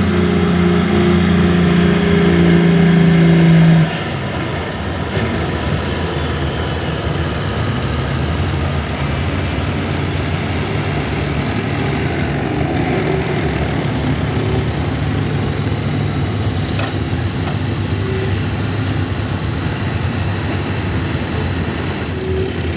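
Pulling truck's engine running hard under load with a high whistle, then cut off about four seconds in: the level drops sharply and the whistle falls away in pitch. After that the engine keeps running more quietly and steadily.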